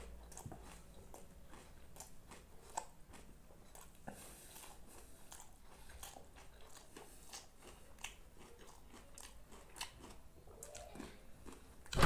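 A person chewing and biting food close to the microphone, with frequent irregular small clicks and smacks of the mouth.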